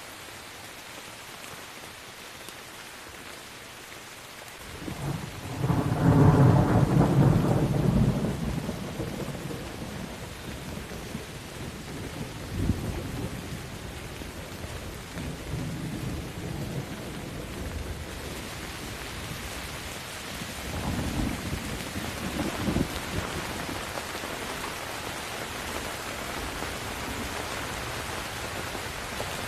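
Steady rain with thunder. A loud rumble builds about five seconds in and rolls away over several seconds. Fainter rolls of thunder follow, and the rain grows heavier in the second half.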